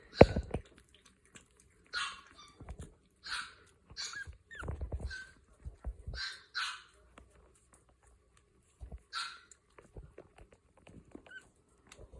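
Boston Terrier puppies giving short, high yips and barks, about nine of them scattered with pauses between, one rising in pitch. A couple of low thuds are heard near the start and about halfway through.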